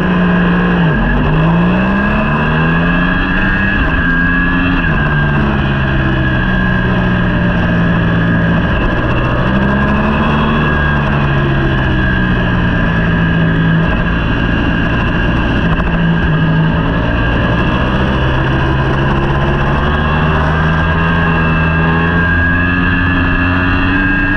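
A racing superbike's engine at high revs. In the first few seconds the pitch climbs and drops again several times as it shifts up through the gears, then it rises and falls slowly, easing and accelerating, over a steady rush of noise.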